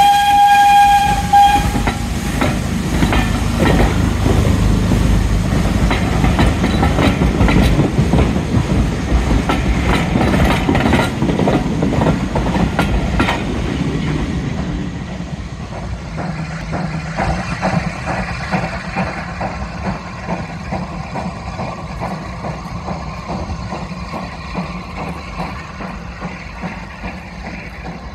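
A short single-note warning blast, then railway coaches rumbling and clattering past over the rails. The sound drops away after about fourteen seconds as the last coach passes and the train draws off.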